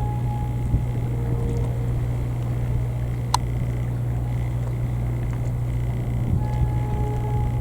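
Steady low drone of a ship's diesel engine running at the ferry pier, with one sharp click about three seconds in and faint short tones near the end.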